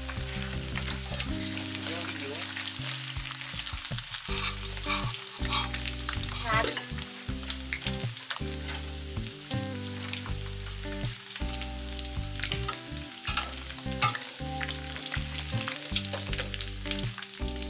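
Chicken pieces deep-frying in hot oil in a metal wok, a steady sizzle with frequent crackles, over medium heat as they turn golden. A metal ladle clinks and scrapes against the wok as the pieces are stirred and lifted.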